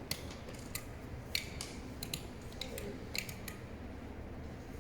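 An irregular run of small, sharp plastic clicks, about a dozen in under five seconds, from the ROV pilot working the controls. A steady low hum runs underneath.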